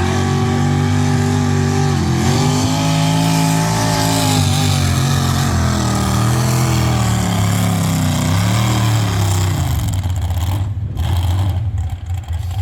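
Pulling tractor's engine at high revs under load while dragging the weight sled, its pitch sagging and recovering several times. About ten seconds in the steady engine note falls away into a rougher, uneven sound.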